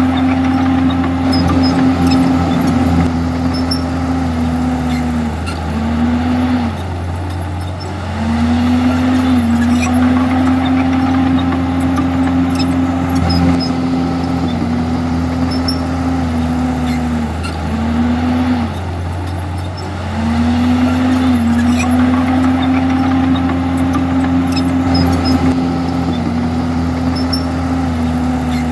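Komatsu D51EX bulldozer's diesel engine running hard and steadily. Its pitch sags and recovers in short double dips that come round about every twelve seconds as the load changes.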